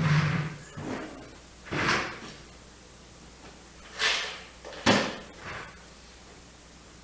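Tool boxes and tools being handled during sorting: about six separate clunks and scrapes, the loudest about five seconds in.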